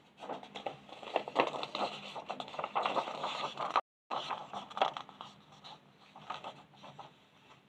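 A colouring tool scratching on paper in quick repeated strokes, briefly cut to silence about halfway through, then lighter strokes.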